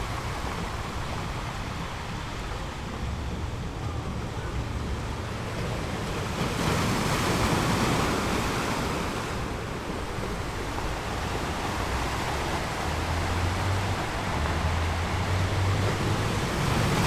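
Sea waves washing onto a rocky shore, a continuous rushing surf that swells as a wave breaks about seven seconds in and again near the end, with a low rumble from wind on the microphone.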